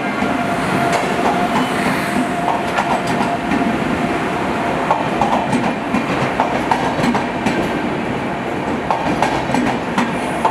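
Passenger coaches of an arriving express train rolling past along the platform. The wheels click steadily over the rail joints above a continuous rumble. A faint steady whine is heard for the first few seconds.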